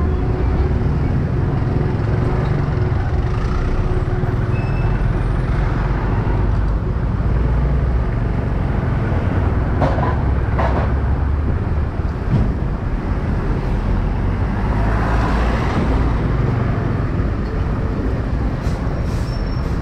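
Motorcycle riding through city traffic: a steady low rumble of engine, wind and road noise, with other vehicles around. Two brief sharp sounds come about halfway through.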